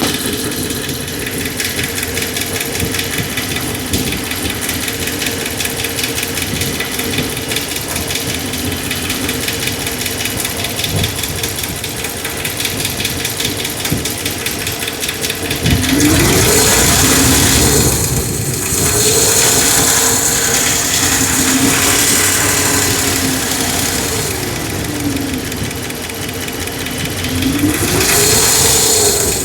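Dodge 5.7 Hemi V8 idling with a fast, even tick, then revved up and back down several times from about halfway through. The tick is a noise this rebuilt engine has had from the start, and the mechanic takes it for a valve-train noise on the driver's side that is loudest at idle.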